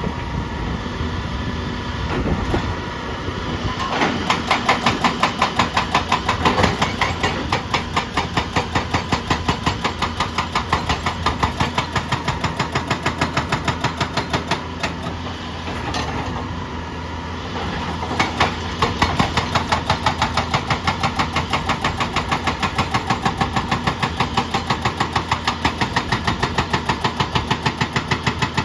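Heavy diesel machinery working, with a rhythmic pounding of several beats a second. The pounding eases for a couple of seconds past the middle, then picks up again.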